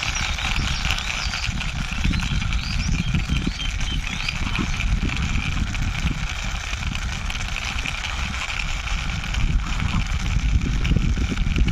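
Small toy car pushed along by hand, its wheels rolling over the ground with an uneven low rumble over a steady hiss.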